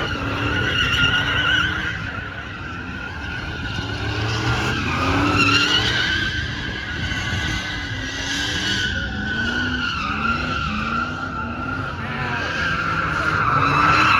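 A vehicle's tyres squealing without a break through a burnout, while its engine revs up and down again and again.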